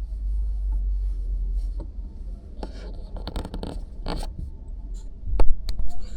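A car's low engine and road rumble heard from inside, with a spell of scratchy rustling and scraping a few seconds in. Then come three sharp clicks or knocks near the end, the first the loudest.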